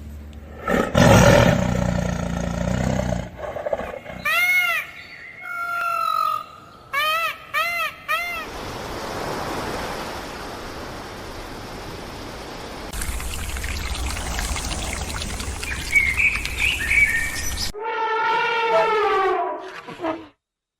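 A run of different animal calls from separate clips: a few short, arched, pitched calls about four to eight seconds in, a long stretch of noise in the middle, and a falling, drawn-out call near the end.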